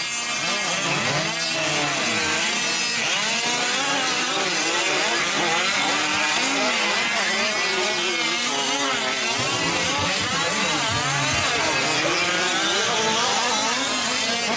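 Several 1/5-scale RC trucks' small two-stroke gasoline engines racing together, revving up and down in overlapping, constantly changing pitches as they come on and off the throttle.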